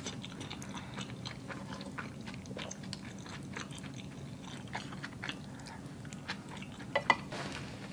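Close-miked chewing and mouth sounds while eating spaghetti, with many small wet clicks throughout and a slightly louder click about seven seconds in.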